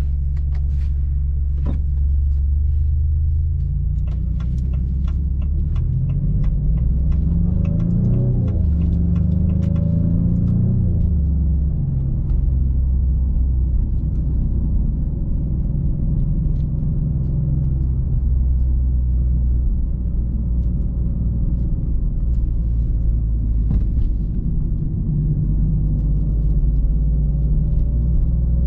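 Twin-turbo 3.0-litre Nettuno V6 of a 2024 Maserati GranTurismo Modena running at low revs with a deep, steady note; about six seconds in the revs climb and drop twice in quick succession, then settle back.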